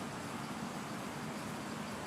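Steady background noise with a low hum underneath and no distinct events.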